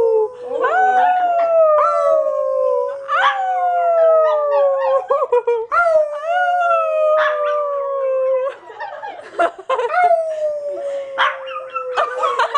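Dog howling: a string of long howls, each rising quickly and then sliding slowly down in pitch, one after another with hardly a break.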